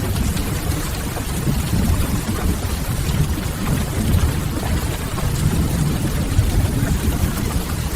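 Ambience mix of steady rain and a fire burning in a fireplace, a constant noise with a heavy low rumble underneath.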